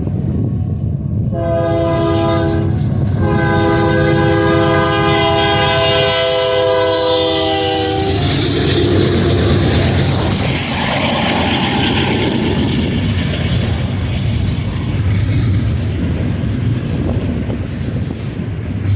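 Diesel freight locomotive's air horn sounding a short blast and then a long one that dips in pitch as the locomotive goes by, followed by the steady rumble and clatter of freight cars rolling past.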